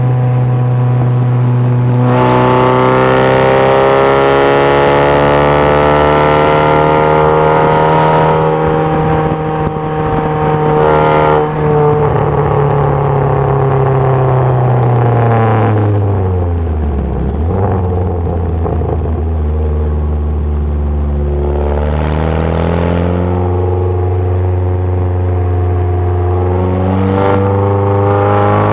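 MG Midget's 2.0-litre Ford Zetec four-cylinder engine at racing load, heard from the open cockpit, the note rising and falling through several gear changes. About halfway through the revs fall steeply, then climb again a few seconds later.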